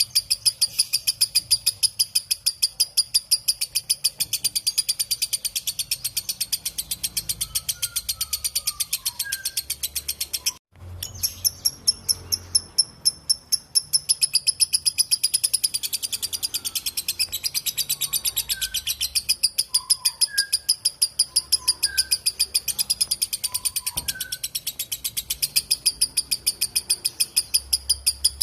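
Lovebird 'ngekek': a long, continuous chatter of rapid, evenly repeated shrill notes, breaking off for a moment about ten seconds in and then going on. A few faint, lower chirps sound in the background.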